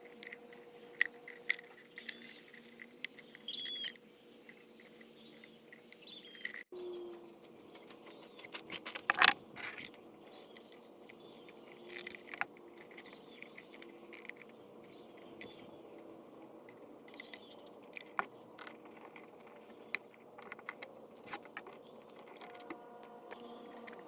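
Scattered clicks, taps and light scrapes of hand tools and small metal parts being handled, with one sharper knock about nine seconds in, over faint bird chirps and a steady hum.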